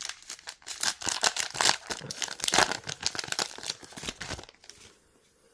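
Trading card pack wrapper crinkling and tearing as it is opened by hand, with a rapid run of irregular crackles that stops about four and a half seconds in.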